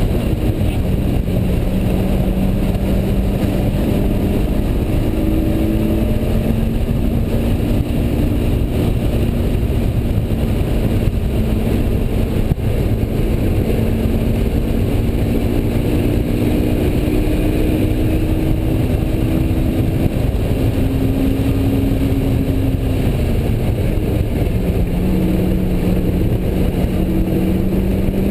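A 2004 Honda S2000's 2.2-litre four-cylinder engine, heard from inside the cabin while the car is driven hard on track. Its pitch climbs and falls as the revs rise and drop, with a drop and fresh climb a little past two-thirds of the way through, over a heavy, steady low rumble.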